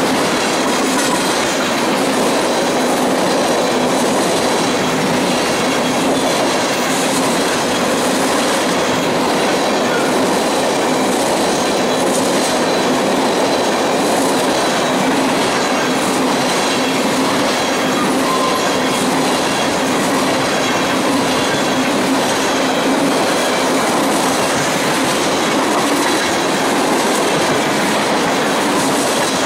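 Freight train cars rolling past at close range, a steady, unbroken noise of wheels on rail with faint steady tones riding over it.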